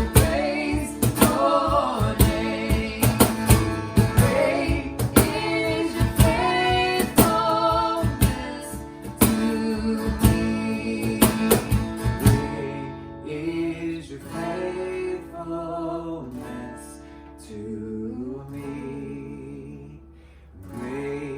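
Live church worship band playing, with drums and guitar. About twelve seconds in the drums stop and the music goes on softer, led by guitar.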